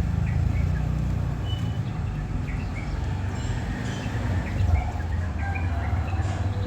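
Steady low rumble with a few short, high chirps scattered over it.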